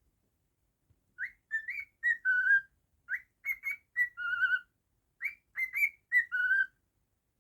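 Cockatiel whistling a short tune: the same phrase of quick rising and falling notes repeated three times, each ending on a longer, lower note.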